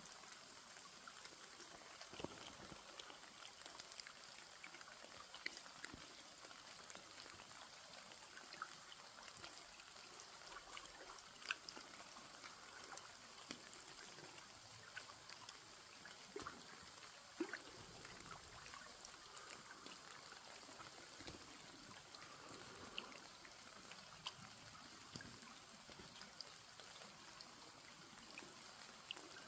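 Faint trickling water, with scattered small drips and ticks over a steady hiss.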